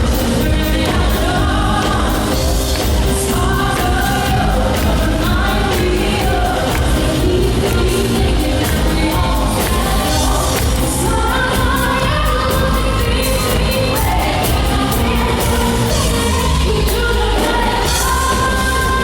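Live pop ballad: a woman singing lead over a full band with heavy bass and drums, loud and unbroken.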